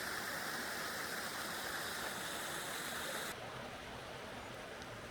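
A mountain creek's water rushing in a steady hiss. A bit over three seconds in it drops abruptly to a quieter, duller rush.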